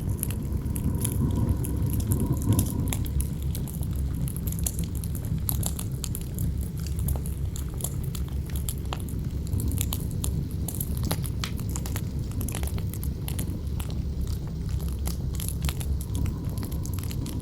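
Campfire crackling and popping, with many sharp snaps over a steady low wind rumble. A howling wind tone is heard at the start, fades out about three seconds in, and returns faintly near the end.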